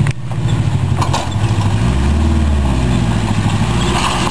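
A four-wheel-drive vehicle's engine revving up and down as it crawls up a rock ledge, with its pitch rising and falling under load.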